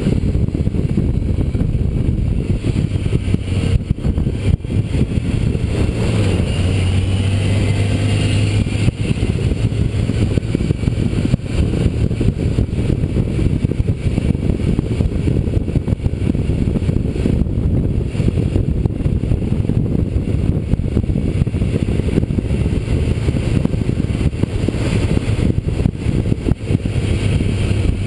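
Motorcycle engine running at road speed under a heavy low rush of wind on the microphone. The engine note strengthens and climbs slightly a few seconds in, then settles back to a steady drone.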